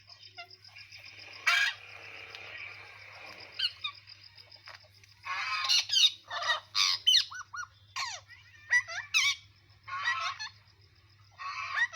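Pet parrot squawking, a string of harsh calls mixed with short sliding whistles, most of them in a quick run in the second half.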